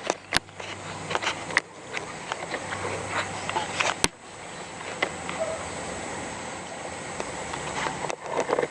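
Rural outdoor ambience: a steady background hiss with a thin, high, continuous tone, broken by a few sharp clicks. The two loudest clicks come about a third of a second in and about four seconds in.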